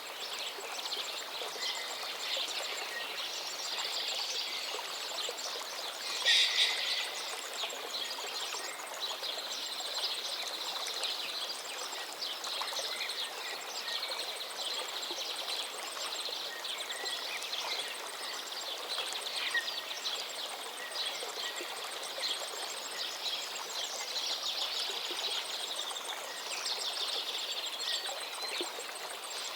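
Steady rush of a flowing forest river, with songbirds chirping and singing over it throughout and a brief louder burst about six seconds in.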